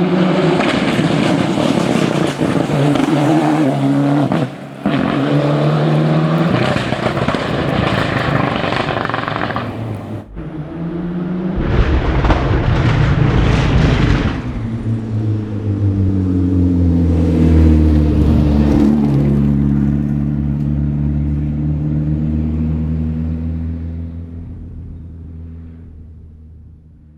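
Ford Escort RS Cosworth rally car's turbocharged four-cylinder engine at full throttle, its note rising and falling through the gears. After a sudden cut about ten seconds in, the engine runs on with a slowly falling note and fades away over the last few seconds.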